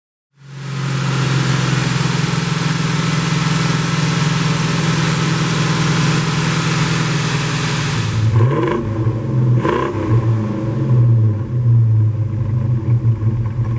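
A 383 Magnum big-block V8 running, steady at a fast speed for about eight seconds after it comes in. Then the speed drops and it is revved up and down, its pitch rising and falling.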